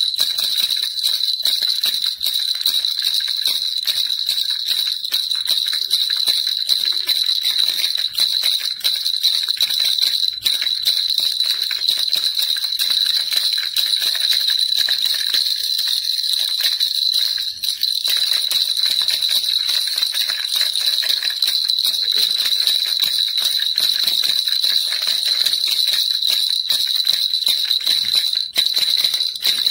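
Baby rattle shaken steadily and continuously, a dense jingling patter of small beads or bells with no pauses.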